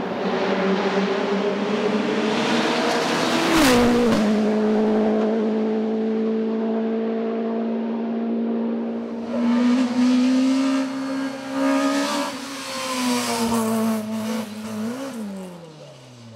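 Racing car engine at high revs on a hillclimb, shifting up about four seconds in with a sharp crack and a drop in pitch, then holding a steady high note. Near the end the pitch swings up and falls away as the car passes and fades.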